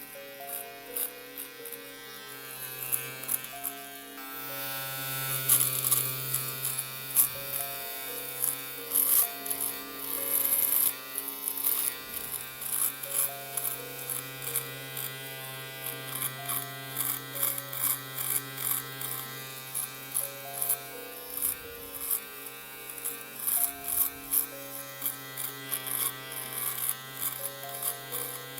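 Electric shaver buzzing steadily, with rapid irregular crackling clicks as it cuts through hair. It gets louder about four seconds in.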